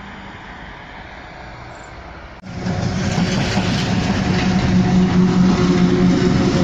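PKP Cargo ET22 electric freight locomotive passing close by, a loud rumble of wheels with a steady multi-tone hum. It comes in abruptly about two and a half seconds in, after a quieter stretch of background noise.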